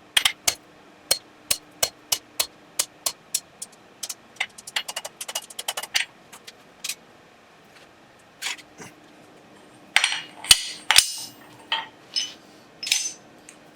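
Hand hammer striking a steel rivet on a pair of forged calipers, peening it over: steady blows about three a second, then a quick flurry of lighter taps, a pause, and a few louder ringing blows near the end.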